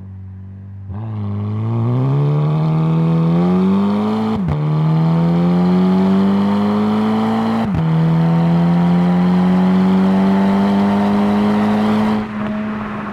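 Volkswagen Golf GTI Mk5 exhaust with the resonator deleted, its 2.0 turbo four-cylinder accelerating hard through the gears: the note climbs steadily, drops sharply with a short crack at each of two upshifts, climbs again, then falls away as the throttle lifts near the end.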